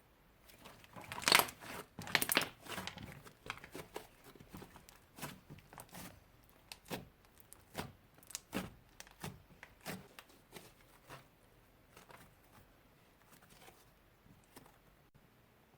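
Slime being handled and squished by hand, giving irregular sticky crackles and small pops, loudest about one to three seconds in and thinning out after.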